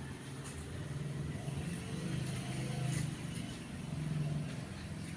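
A low engine hum that swells and fades, with a few faint clicks.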